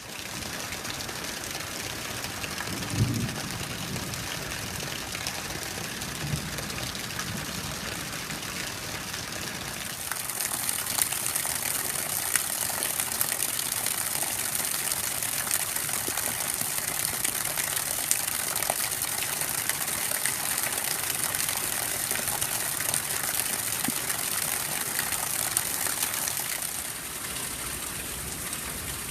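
Steady night rain with many small drops ticking. It grows louder and hissier about ten seconds in and eases a little near the end. A brief low thump comes about three seconds in.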